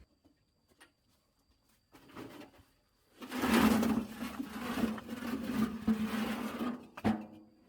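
A rough scraping sound, loud and continuous for about four seconds, ending with a sharp knock.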